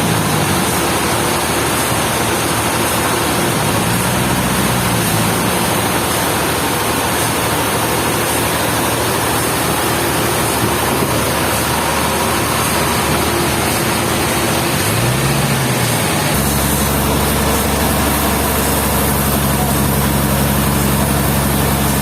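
Sawmill machinery running loud and steady, with an engine whose pitch swells briefly a few times and then settles into an even hum about sixteen seconds in.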